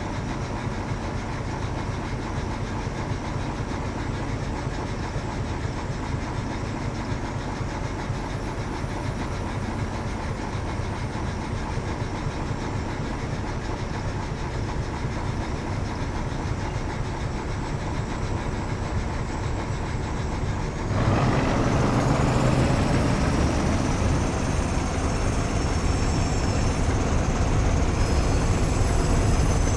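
Train running on the rails, a steady rumble that turns suddenly louder about two-thirds of the way through. Thin high wheel squeal comes in near the end.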